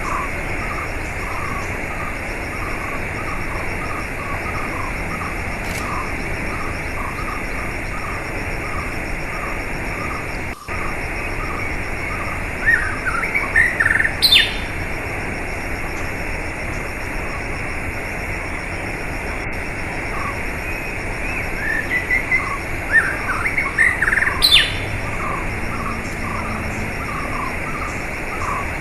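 Wild birdsong over a steady rushing-water background. Short chirps repeat about one to two times a second throughout, and twice, about 13 and 23 seconds in, a bird breaks into a louder burst of quick rising song phrases.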